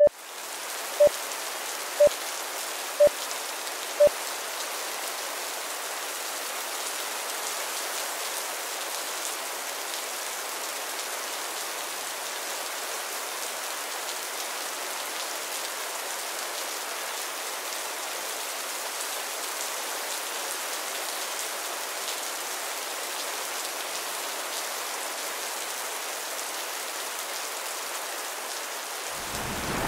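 Steady rain falling, an even hiss. A few short beeps sound once a second during the first seconds, and a low thunder rumble starts to build in the final moment.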